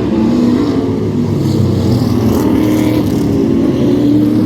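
Loud, continuous drone of vehicle engines running at the stadium track, their pitch drifting slightly up and down.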